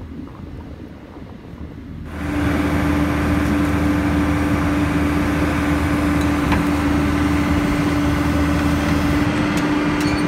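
A heavy construction machine's engine running loud and steady with a constant whine. It comes in suddenly about two seconds in, over a lower rumble before it.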